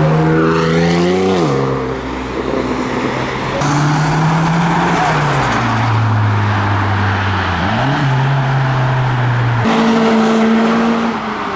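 Modified cars driving past and accelerating, the engine note climbing and then dropping several times as revs rise and gears change.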